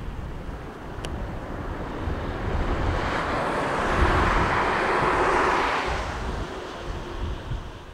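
Distant electric train running along the line, its wheel-and-rail noise swelling to a peak about four to five seconds in and then fading, with wind rumbling on the microphone.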